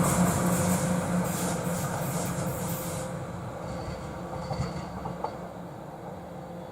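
Train running past on the rail line and receding, the rattle of its wheels on the rails dying away over the first three seconds and the sound fading steadily after that, with two faint knocks about five seconds in.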